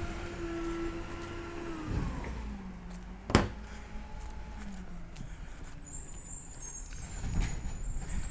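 Diesel engine of a Peterbilt 320 side-loader garbage truck held at raised revs, then dropping back to a lower idle just under two seconds in. A single sharp bang comes about three seconds in, and a thin high-pitched squeal near the end.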